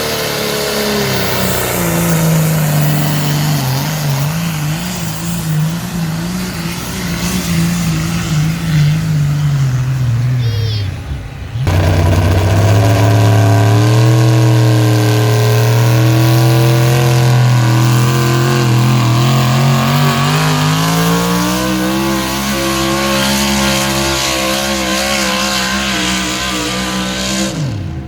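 A pulling vehicle's engine running hard at high revs under the load of the sled, its pitch sagging and then climbing again. About twelve seconds in, an abrupt cut jumps to another stretch of engine running, which rises in pitch and holds high.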